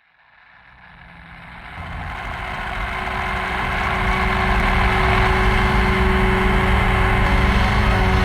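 A dense, droning wash of noise with a low rumble and a steady hum, fading in from silence over the first few seconds and then holding steady: the opening of a noise-rock / shoegaze track.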